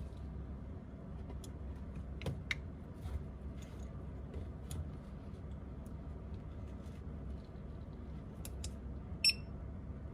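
Light, scattered clicks and taps of small tools on phone parts over a low steady hum. Near the end comes one sharper click with a brief ringing tone.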